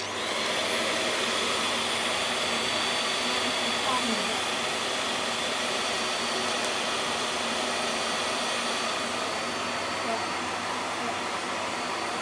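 VAX Air Stretch Pet Max upright vacuum cleaner switching on at once and running steadily on its deep-pile setting: an even motor rush with a thin high whine. Its suction grips the carpet so hard the cleaner will hardly move.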